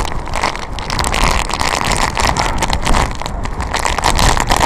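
Strong typhoon wind buffeting a phone's microphone: a continuous loud rumble broken by many short crackling hits.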